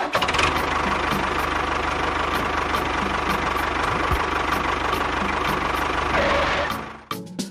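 An engine running steadily at an even speed, with a light regular tick about three times a second. It starts abruptly and fades out near the end.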